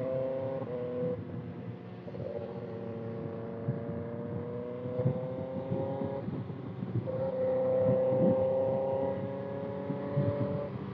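Kawasaki ZX6R 636 cc inline-four through a Voodoo Racing slip-on exhaust, running under way with the pitch climbing slowly as it gains speed. About six seconds in the pitch drops with an upshift, then climbs again.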